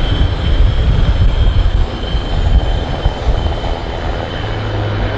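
Military aircraft passing the crowd in a low flypast: a loud, steady rumble of engine noise that eases slightly near the end.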